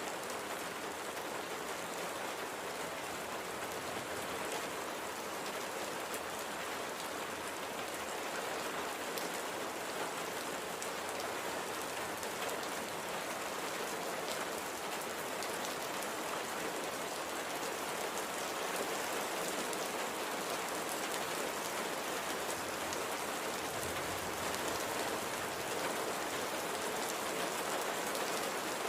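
Steady light rain falling, a continuous even patter of fine drops.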